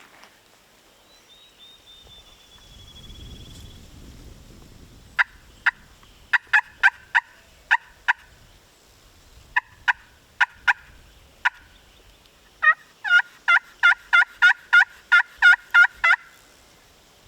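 Wild turkey hen-type calling: sharp single clucks in a loose scatter, then a run of about fourteen rapid, evenly spaced yelps near the end.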